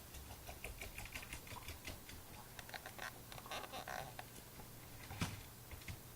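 A run of quick, irregular light clicks and taps, thickest in the middle, with one sharper knock about five seconds in.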